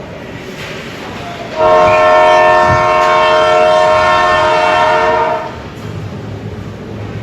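Arena horn blaring one steady, loud blast of about four seconds, starting about a second and a half in.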